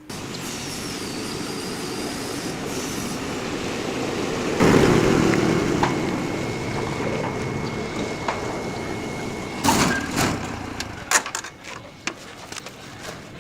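Vehicle noise, a steady rushing sound that swells about halfway through. A thin, steady high tone runs for about four seconds in the middle, and a run of sharp clicks and knocks comes near the end.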